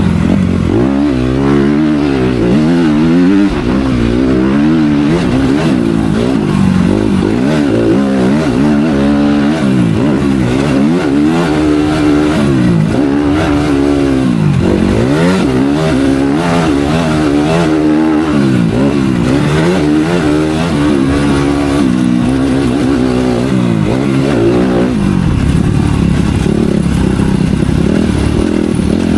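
Motocross bike engine revving hard and falling off again and again as the throttle is opened and shut, its pitch rising and dropping every second or two.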